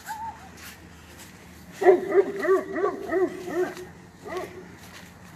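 A dog barking: a quick run of about eight barks starting around two seconds in, then one more bark a moment later.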